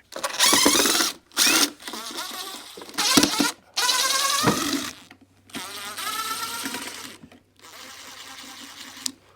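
Cordless impact wrench running in a series of short bursts, about seven, its motor pitch rising as it spins up, as it backs screws out of the dock's wooden boards. The last two bursts are quieter.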